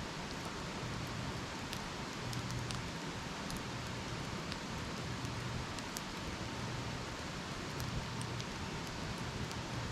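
Wood campfire burning: a steady hiss with scattered small crackles and pops.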